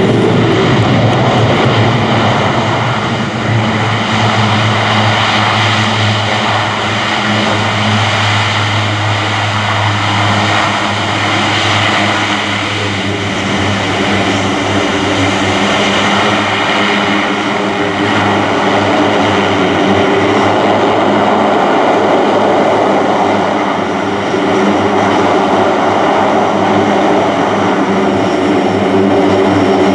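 AC-130J Ghostrider's four Rolls-Royce AE 2100 turboprop engines running loud with the propellers in beta range, the reverse-pitch setting used to brake the aircraft during the landing rollout. A steady drone with several held tones over a rushing roar.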